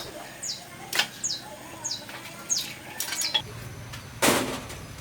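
A bird gives a short, high, falling chirp over and over, about every two-thirds of a second, then stops about three seconds in. A few sharp knocks come in between, a low steady hum starts after the chirps, and a louder clatter comes near the end.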